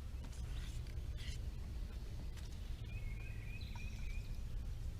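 A steady low background rumble, with a few faint handling knocks in the first second or so. About three seconds in comes a brief high, warbling chirp.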